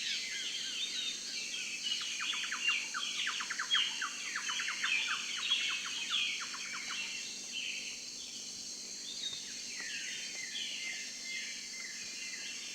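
Birds chirping and singing, many quick down-sweeping calls overlapping, busiest in the first half and thinning out later, over a steady high hiss.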